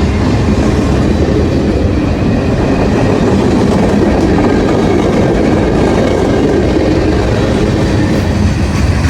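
A train rolling past at close range: a steady loud rumble of wheels on rail, with clickety-clack from the wheels crossing rail joints.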